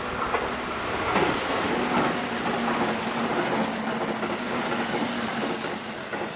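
Multi-car electric train passing on the rails, swelling to a steady loud rumble about a second in, with a thin high wheel squeal over it and a faint low hum.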